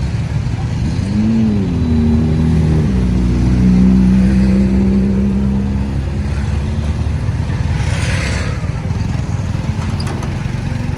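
Road traffic: a vehicle engine rises and falls in pitch about a second in, then runs at a steady pitch. A short burst of hiss comes about eight seconds in.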